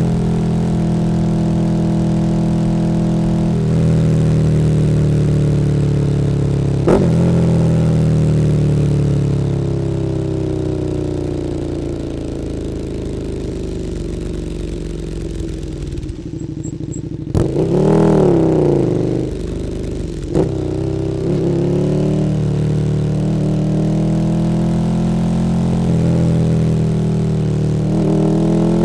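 KTM 1290 Super Duke R's V-twin engine through an Akrapovič Evolution Line exhaust while riding. It runs steadily, slowly drops in pitch as the bike slows, gives one quick rev that rises and falls about two-thirds of the way in, then settles back to steady running.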